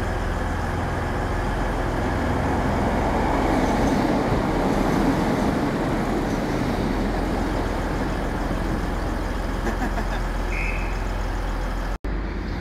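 Northern Class 150 Sprinter diesel multiple unit moving through the station: a steady rumble of engine and wheels that grows loudest about four seconds in, then eases off. A short high tone sounds about ten and a half seconds in.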